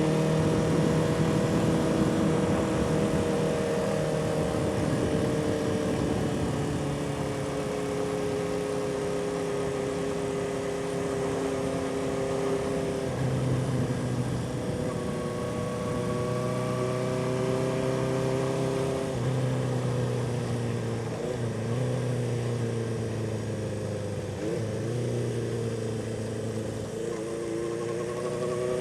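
1976 Honda CB400F's air-cooled inline-four engine running under way. Its note glides down and up and steps several times as throttle and gears change.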